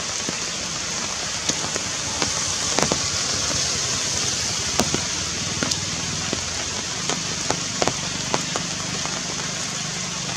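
Steady rain falling on forest leaves, a continuous hiss with scattered sharper drops striking close by.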